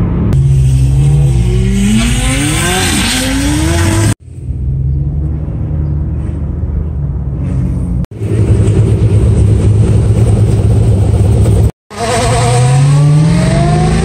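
Sports car engines at full throttle in several short clips cut together: the revs climb in long rising sweeps, hold a steady high-rev drone in the middle, and climb again near the end.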